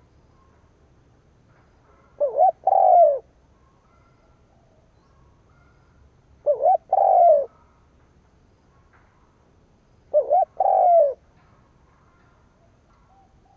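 Spotted dove cooing: three calls about four seconds apart, each a short coo followed by a longer, slightly falling one.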